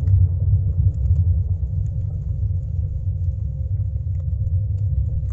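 Boat engine running with a steady low rumble and a faint hum above it.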